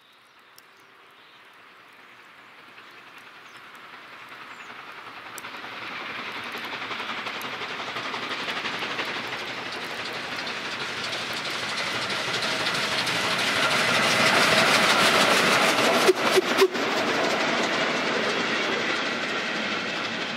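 A train approaching and passing on the rails, growing steadily louder out of silence over about fifteen seconds. A few sharp wheel clacks come about sixteen seconds in, and it begins to fade near the end.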